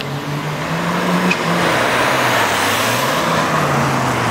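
Engine of a red Audi Coupé (Typ 89) driving past, its note dipping about halfway through and rising again near the end, over steady tyre and road noise.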